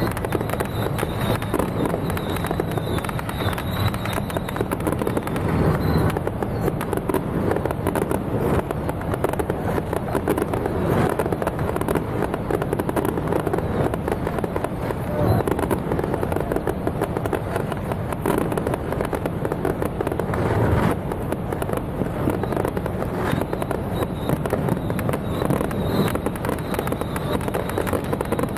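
Fireworks going off without a break: a dense, steady crackle with heavier booms now and then, a few seconds apart.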